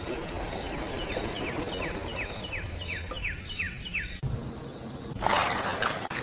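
A bird chirping: a run of about ten short falling notes, roughly three a second, over a low steady background, followed by a louder burst of noise about a second before the end.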